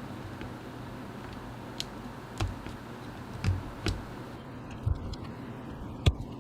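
Mechanical keyboard with linear Gateron Milky Yellow switches, giving about six separate clicks and clacks at uneven spacing, over a steady low hum.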